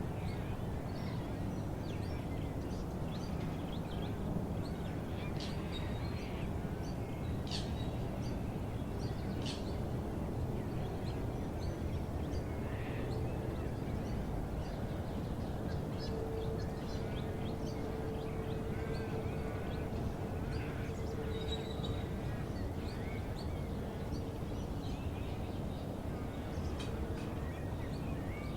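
Many wild birds chirping and calling in short, scattered notes over a steady low background rumble. A faint steady hum joins about halfway through.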